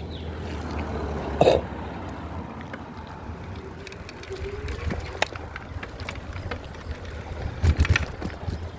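Folding e-bike being ridden over a rough, dusty surface: a steady low rumble from the tyres and the moving bike, with scattered rattles and clicks. There is a loud jolt about a second and a half in, and a cluster of jolts near the end.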